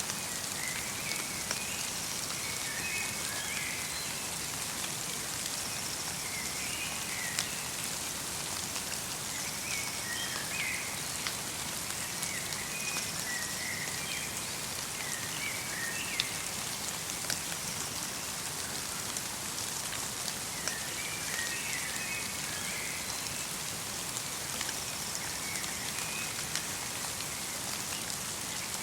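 Light rain mixed with falling snow pattering steadily on a forest, with individual drops ticking close by. Small birds give short bursts of chirps every few seconds.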